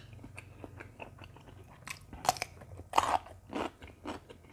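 Close-up mouth sounds of eating: wet chewing of springy beef tendon meatballs, with a few louder crisp crunches about two and three seconds in as fresh cucumber is bitten.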